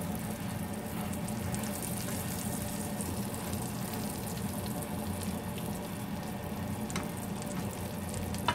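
Tortang talong (egg-battered eggplant omelettes) frying in shallow oil in a nonstick pan: a steady sizzle with scattered small pops over a low steady hum, and one sharp click near the end.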